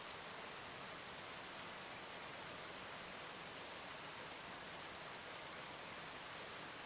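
Faint, steady rainfall from a rain ambience recording, with light scattered drop ticks.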